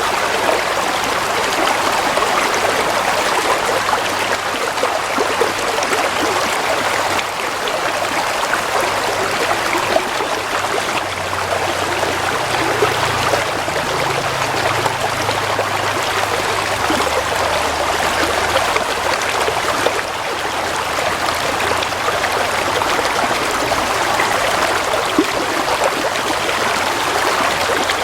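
Gently flowing stream water: a steady, even rush of running water with no breaks.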